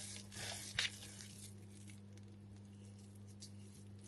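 Hands squishing and kneading soft cottage-cheese syrniki dough, faint, with a couple of soft knocks in the first second.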